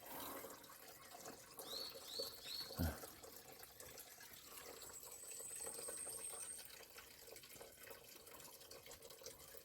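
Faint mountain stream water trickling and dripping, with three quick high chirps about two seconds in.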